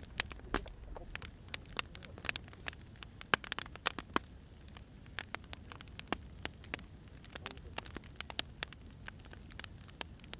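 Wood fire crackling: irregular sharp pops and snaps of burning firewood over a steady low rumble.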